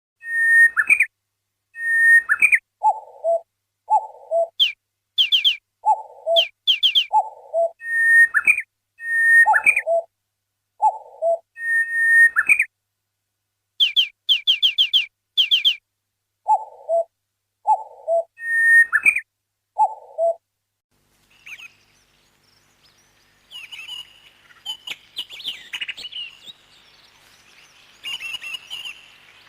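Parrot whistling and chirping. First comes a long series of short, repeated whistled calls with clean gaps between them. From about two-thirds of the way in, busier, quicker chirping follows.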